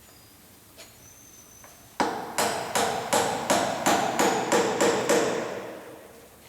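Hammer blows, about ten quick strikes at roughly three a second starting two seconds in, each leaving a ringing tone that fades away after the last blow: nailing the dragon eyes onto a king boat.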